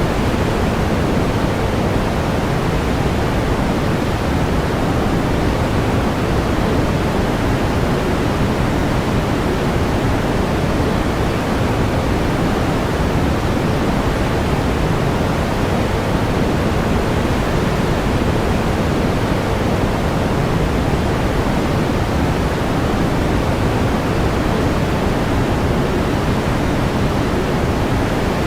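Steady pink noise: an even, unchanging hiss, fuller in the low end than white noise.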